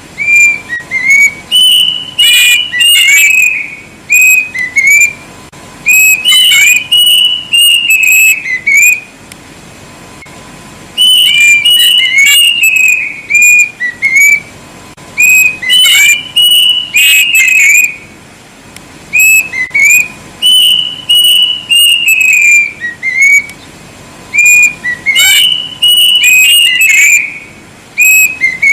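Plaintive cuckoo (kedasih) singing loudly: repeated phrases of quick, clear whistled notes that climb and then step down in pitch, about six phrases with short pauses between.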